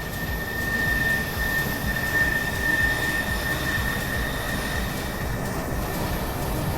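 Military jet aircraft flying overhead: loud rushing jet engine noise with a steady high whine, swelling about a second in and easing slightly toward the end.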